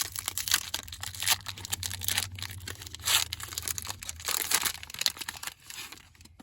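Plastic wrapper of a Panini Contenders baseball card pack being torn open and crinkled by hand: a run of crackling rustles that dies away about five and a half seconds in.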